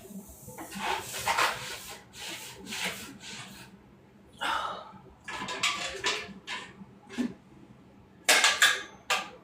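Irregular rubbing and scrubbing strokes of household cleaning, with light handling knocks, uneven in length and loudest near the end.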